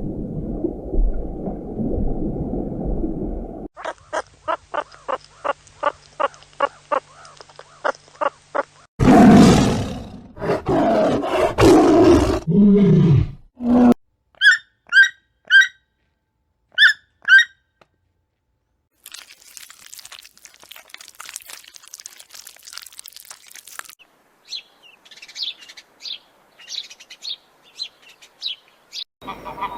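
A run of separate animal sounds: a low rumbling noise, then a regular series of pulsed calls about two a second, then a loud roar falling in pitch about nine seconds in, followed by short high chirps of a bird.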